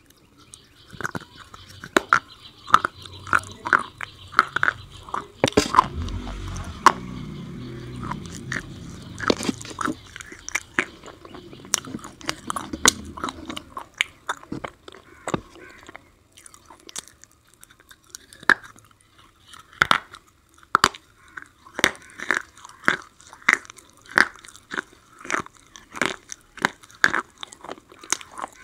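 Crunching as black slate pencil coated in white paste is bitten and chewed close to the microphone, in steady runs of sharp crunches about two a second.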